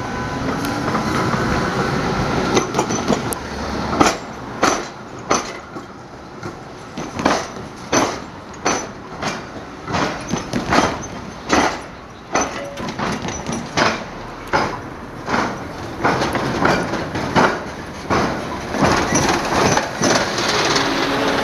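Train wheels crossing the tram-track diamond crossing in a long run of sharp, uneven bangs as each wheel strikes the rail gaps.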